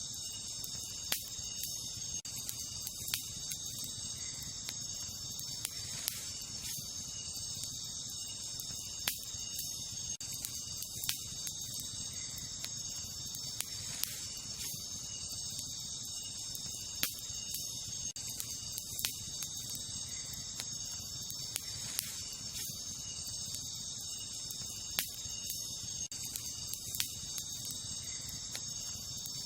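Wood campfire crackling, with sharp pops every second or few seconds, under a steady high-pitched chorus of night insects such as crickets.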